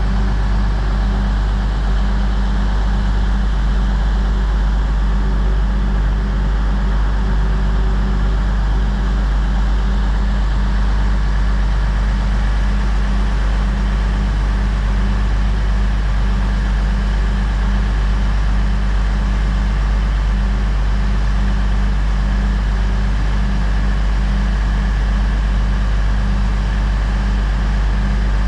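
Class 222 Meridian diesel multiple unit's underfloor diesel engines running steadily: a loud, unchanging low drone with a steady hum over it.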